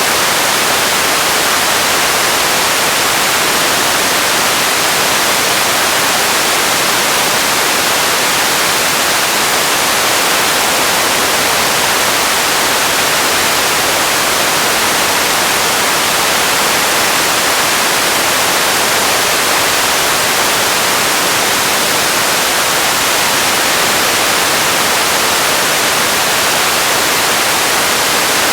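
Radio static: a loud, steady hiss with no tones or breaks, heavier in the upper range than the lows.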